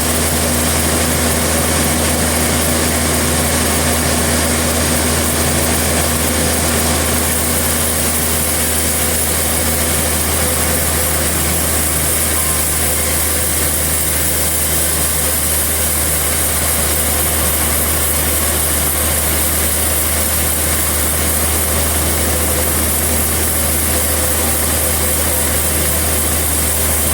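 Sawmill machinery running steadily, an engine hum with a broad steady noise over it and no breaks.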